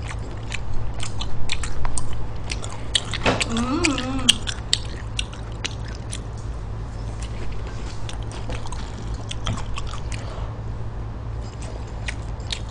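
Close-up chewing of stir-fried pork intestines: wet, smacking mouth clicks over most of the stretch, with a short hummed voice sound about three and a half seconds in. A steady low hum runs underneath.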